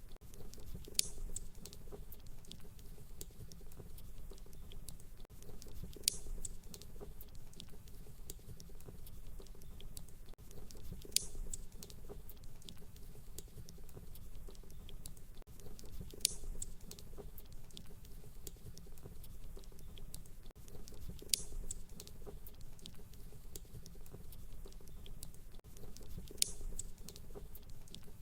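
Fireplace crackling over a soft low rumble, with a sharper pop about every five seconds at even spacing, as in a looped recording.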